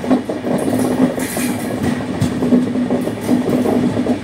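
Passenger train running on the track, heard from on board: a steady rumble of wheels on the rails with a constant low hum and occasional clacks.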